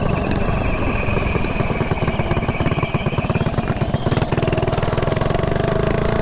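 Mini bike engine running, heard close up from the rider's position. It eases off to a slower, pulsing beat between about two and four seconds in, then picks up speed again.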